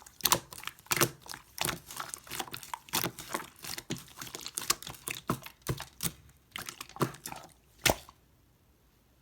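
Slime with mixed-in charm parts being squished and pressed by hand, giving irregular sticky clicks and pops a few times a second. The clicking stops about eight seconds in.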